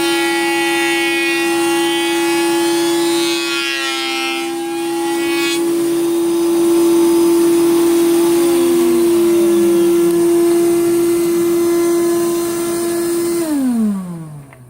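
Power woodworking machine running with a steady high hum; its pitch wavers briefly about four seconds in. Near the end it is switched off and winds down, its pitch falling as it slows.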